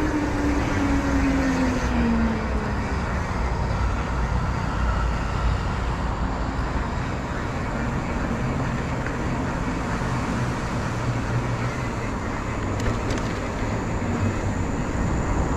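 Motorcycle ride: an engine running under steady wind and road noise. A tone drops in pitch over the first two seconds or so.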